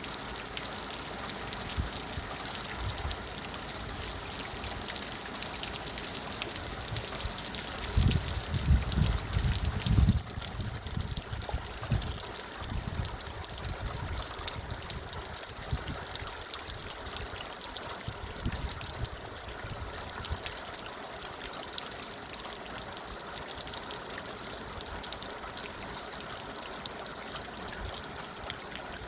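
Steady spring rain with water running and trickling. A burst of low rumbling from about eight to ten seconds in is the loudest part.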